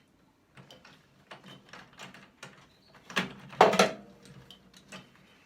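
Irregular clicks and knocks of tools and metal parts being handled while a microwave oven is taken apart, with a louder clatter about three to four seconds in.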